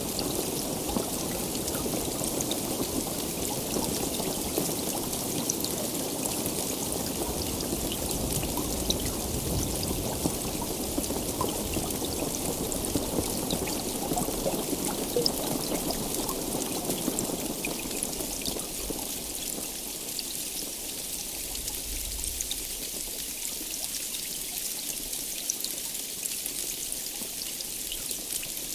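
Heavy rain falling steadily: a dense, even hiss with many small drop ticks. Its lower rumble eases off somewhat about two-thirds of the way through.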